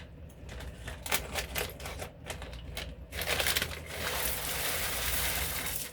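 Frozen mixed vegetables (carrots, green beans, corn and peas) being tipped from a plastic bag into a slow cooker: scattered clicks and rattles of pieces falling at first, then a steady rushing patter as the bulk pours in from about three seconds in.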